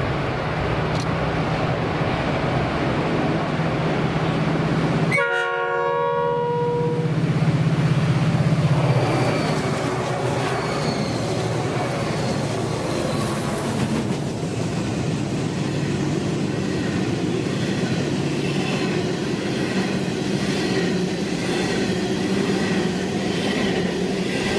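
EMD diesel locomotives of a grain train sound a multi-tone horn chord for about a second and a half, then pass close by with their engines running. From about halfway on, a long string of loaded grain hopper wagons rolls past with a steady rumble and clickety-clack of wheels over rail joints.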